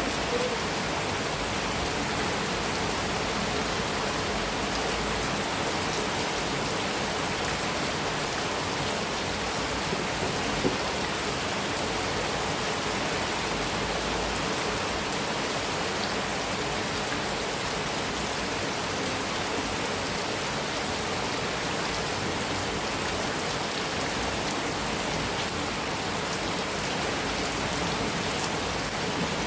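Heavy rain falling steadily on a metal roof, an even, unbroken hiss of drops.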